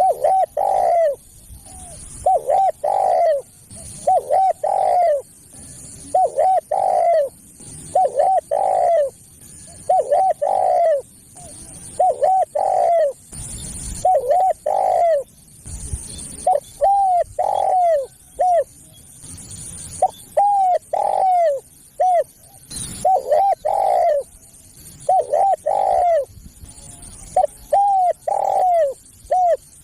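Spotted dove cooing: the same short phrase of a few quick notes ending in a longer coo, repeated about every two seconds.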